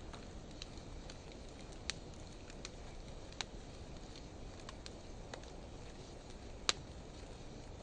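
Wood fire of driftwood and dry hardwood burning with a steady low rush and scattered sharp crackling pops, the loudest pop near the end; played back at half speed, so the pops sound lower and duller.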